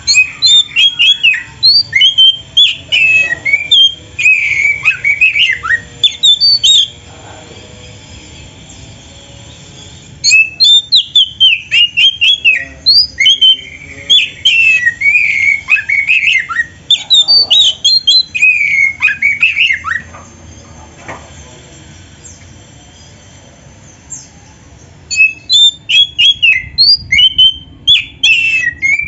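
Oriental magpie-robin (kacer) singing in fast runs of varied chattering and whistled notes, a 'full isian' song loaded with phrases copied from other birds. It comes in three spells separated by pauses of a few seconds.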